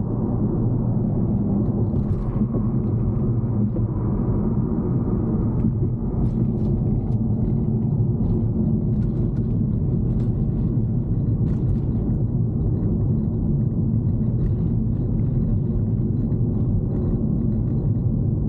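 Steady road and engine rumble heard inside a car's cabin while it is being driven, with a few faint ticks now and then.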